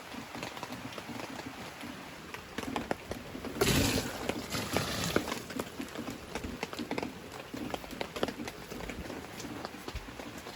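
Heavy rain falling on a tent, a steady patter of many separate drops striking the fabric. A louder rush of noise comes about four seconds in and lasts under a second.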